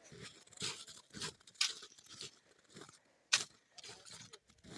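Footsteps crunching in frozen snow, about two steps a second, with one sharper, louder crunch a little after three seconds in.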